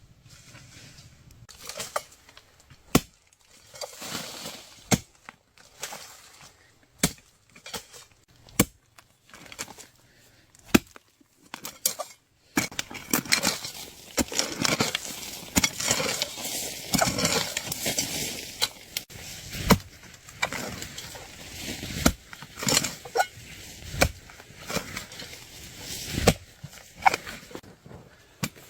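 A hand digging tool chopping into soil in separate strikes every second or two. Through the second half the strikes come with steady scraping and rustling of earth and plants.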